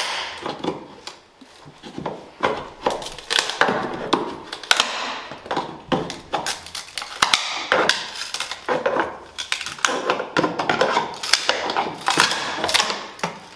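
Irregular clatter of knocks, taps and scrapes of hand tools working on wood and metal during demolition of carpeted wooden stairs.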